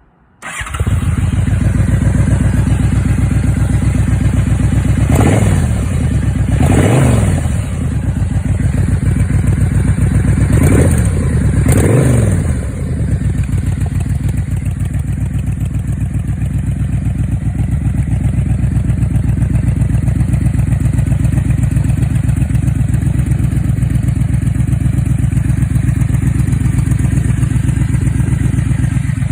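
Yamaha Royal Star's V4 engine breathing through Cobra turnout mufflers, starting up about half a second in and idling. It is revved four times in two pairs, about five and eleven seconds in, each rev rising and falling back, then it settles into a steady idle.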